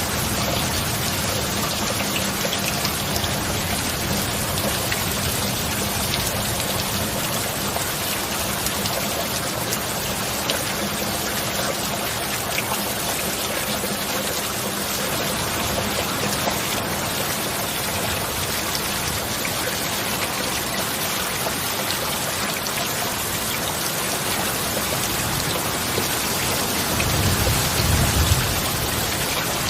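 Steady rain falling, an even hiss of drops, with a brief low rumble of distant thunder near the end.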